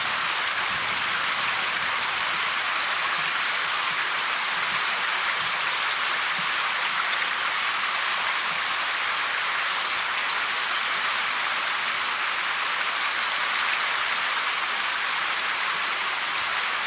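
Steady, even hiss with no distinct events, concentrated in the upper-middle range with little low rumble.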